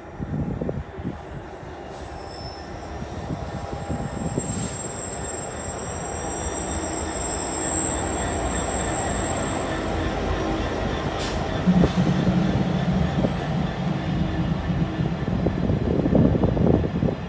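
A Class 66 diesel-electric freight locomotive with a two-stroke EMD V12 engine approaches and passes hauling an intermodal container train, growing louder over the first several seconds with a thin high whine over the approach. The locomotive's engine gives a strong low steady hum as it goes by, and then the container wagons rumble and knock past.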